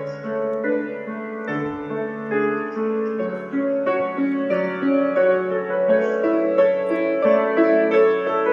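Background piano music: a slow melody of sustained notes over held chords.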